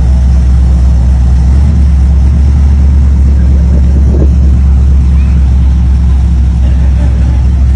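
A vehicle engine idling with a loud, deep, steady rumble.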